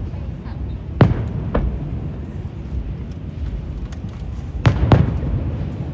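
Fireworks shells bursting in the air: a pair of sharp bangs about a second in and a louder pair near the end, over a steady low rumble.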